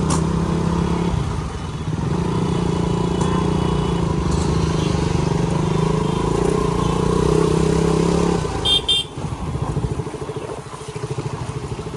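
Motorcycle engine running in slow traffic, its pitch shifting a little, with two short horn toots about nine seconds in. After that the engine drops to a pulsing, idling beat.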